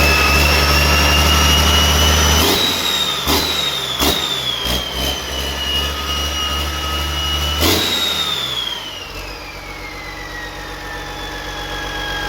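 Restored Yanmar engine running, with a low drone under a whine whose pitch climbs and then falls away in the second half as the engine slows. There are a few sharp knocks, the loudest about two and a half seconds in and near eight seconds in.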